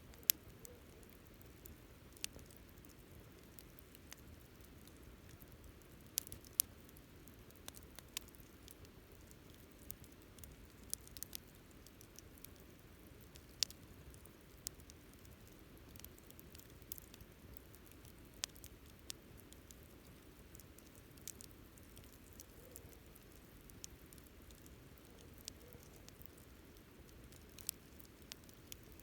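Wood campfire crackling: irregular sharp pops and snaps, some louder than others, over a soft low rush of burning.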